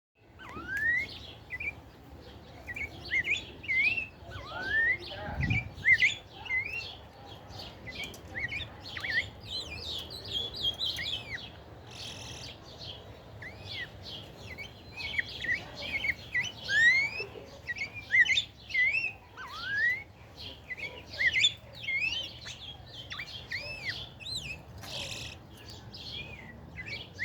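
Black-backed grosbeak (rey del bosque) singing: a long run of quick, rich, whistled notes sliding up and down, phrase after phrase. There is a steady low hum underneath and a brief low thump about five seconds in.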